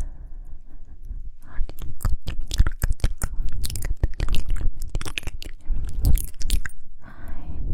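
Close-miked ASMR mouth sounds: rapid, irregular wet clicks, smacks and pops of lips and tongue, with a short breathy, whisper-like sound near the end.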